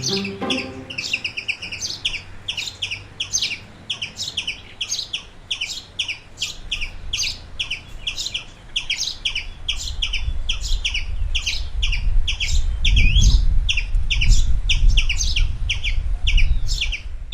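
Rapid, continuous high-pitched chirping, several chirps a second, as of small birds. A low rumble comes in about six seconds in and grows loudest in the second half.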